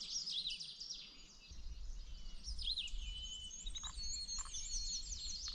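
Several songbirds singing over one another in high, thin trills, chirps and whistles, a northern parula among them. A faint low rumble comes in about a second and a half in.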